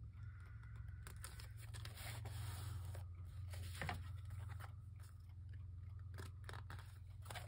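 Scissors snipping through paper in short, irregular cuts, with some paper rustling, over a steady low hum.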